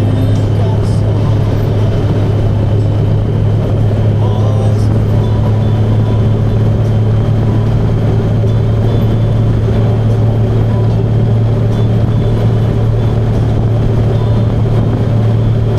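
Motorcycle engine running at a steady speed, a constant low hum over a rush of noise with no change in pitch.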